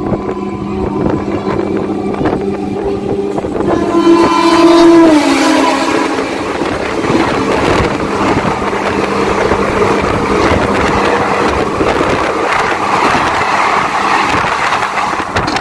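Train running at speed with wheel and wind noise. About four seconds in, a passing electric locomotive's horn sounds and drops in pitch as it goes by, and then the coaches of the crossing train rush past alongside.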